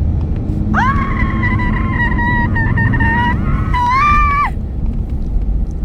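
A person's long, high-pitched squeal, held for about four seconds and rising a little near the end, over the low rumble of the car driving.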